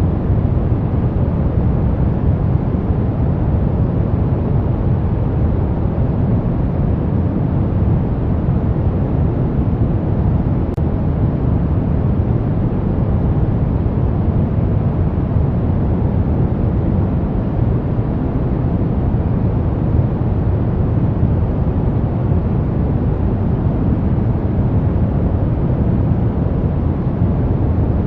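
Brown noise: a steady, deep rushing hiss, heaviest in the low end and fading toward the treble, with no change throughout.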